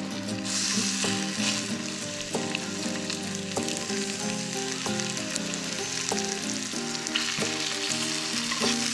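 Food sizzling steadily as it fries, under background music of plucked notes.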